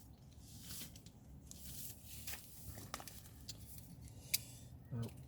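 Close-up handling noises: soft rustling and scraping with a few sharp clicks, the sharpest about four seconds in.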